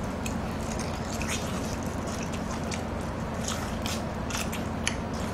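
Eating sounds close to the microphone: biting into and chewing a whole yellow pickled radish (danmuji), with many short scattered wet mouth clicks over a steady low hum.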